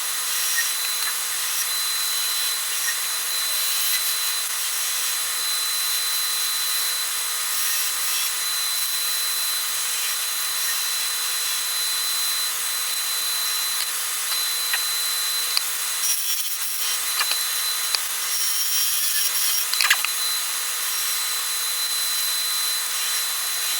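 Wood lathe turning a soft poplar spindle while a hand-held turning tool cuts it: a continuous scraping hiss over a steady high tone, with a few light knocks about two-thirds of the way through.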